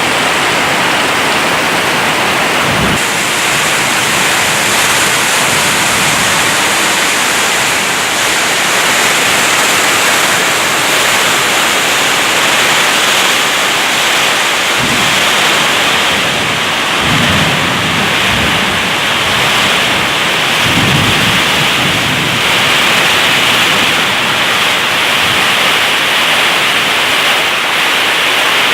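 Heavy downpour, a loud steady hiss of rain, with a few short low rumbles breaking through: one a few seconds in and several more in the middle.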